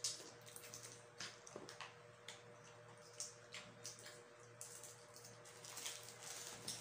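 Faint close-up eating sounds: wet chewing and lip-smacking with many small scattered clicks, over a steady low hum.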